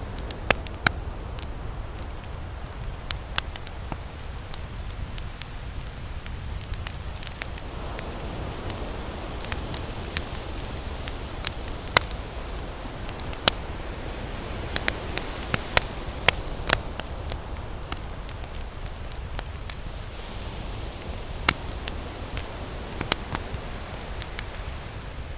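Campfire burning, with sharp, irregular crackles and pops over a steady low rush.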